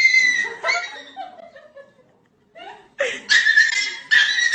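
Bursts of high-pitched laughter in short fits, with a pause in the middle before louder laughing near the end.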